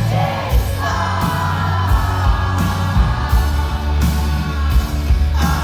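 Live pop-rock band playing a chorus, with a singer holding one long note on the word "jigsaw" over a steady drum beat.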